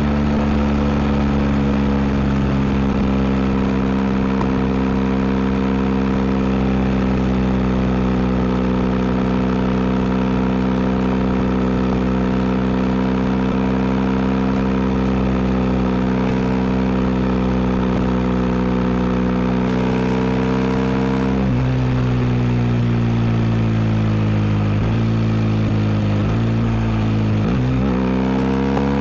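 BMW R1250 GS boxer-twin engine through an Akrapovic exhaust, running at a steady engine speed while riding. About three quarters of the way in the engine note drops sharply and climbs again, and near the end it dips and climbs a few more times, as with gear changes under acceleration.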